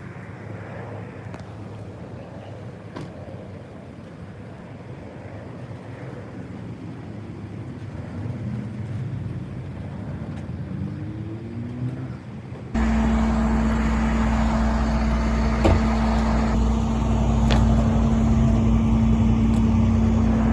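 Motor vehicle noise: a steady rumble that steps up abruptly about thirteen seconds in to a much louder, constant drone with a steady low hum.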